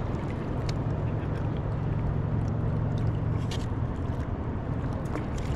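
Steady wash of ocean water around a surfboard with low rumbling wind noise on the microphone, and a few faint light clicks scattered through.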